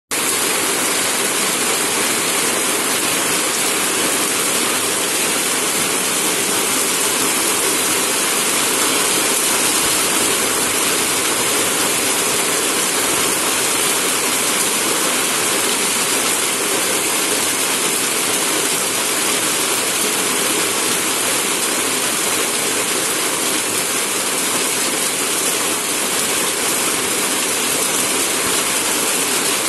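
Heavy rain pouring steadily onto a road and the surrounding trees and plants: a loud, dense, even hiss that keeps up without a break.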